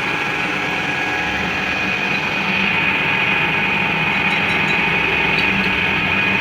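Workshop machine running steadily, with a constant high whine over a low hum and a few faint ticks in the second half.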